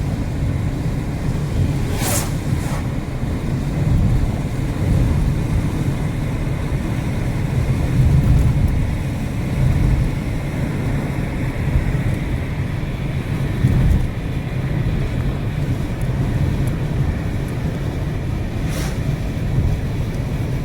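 Car travelling along a road: a steady low rumble of engine and tyres with wind buffeting the microphone, and two brief sharp clicks, one about two seconds in and one near the end.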